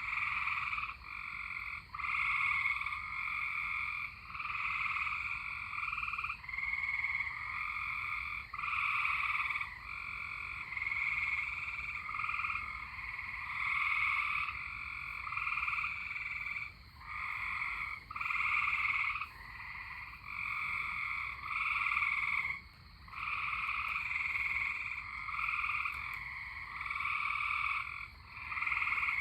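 A chorus of frogs calling, each call about a second long, following one another with hardly a pause.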